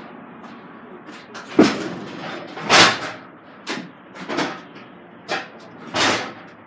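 A series of about six sharp bangs and clattering knocks, the loudest a little past a third of the way in and near the end, over a low background rumble.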